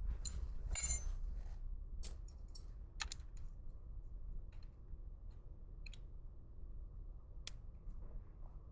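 Scattered light metallic clicks and clinks of small tools or parts being handled, about six in all. The loudest, about a second in, rings briefly.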